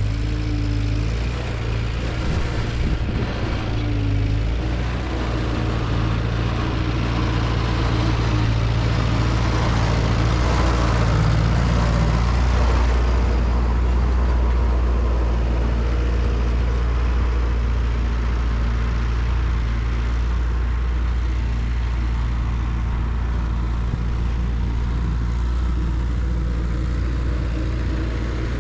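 Ford 9N/2N tractor's four-cylinder flathead engine running steadily, a little louder for a few seconds around ten to thirteen seconds in.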